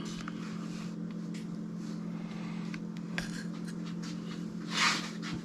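Knife blade being stroked across a whetstone in sharpening strokes, mostly faint, with one louder scraping stroke near the end, over a steady low hum.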